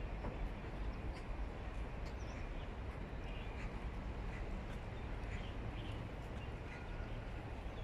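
Outdoor park ambience: a steady low rumble with scattered short bird chirps.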